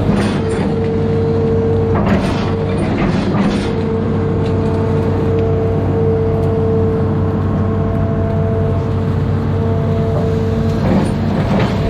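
Amphibious excavator's diesel engine running steadily under load, with a steady whine above the engine drone and a few short bursts of scraping and clanking from the machine working, about two seconds in and again near the end.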